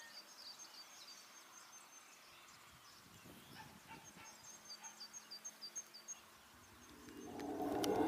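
Faint birdsong: a songbird repeating runs of short, high, falling chirps. Near the end a rising swell of sound comes in.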